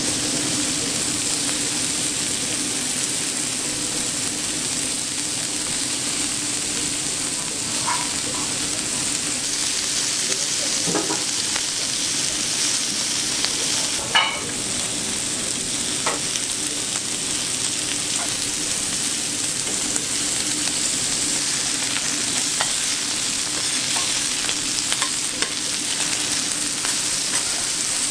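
Sliced pork frying on an oiled teppanyaki griddle: a steady sizzle, with a few light clicks and one sharp clack about halfway through.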